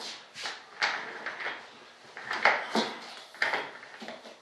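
Bench work handling: a string of sharp clicks and rustly scrapes, about eight in all, from tools and materials being picked up and set down.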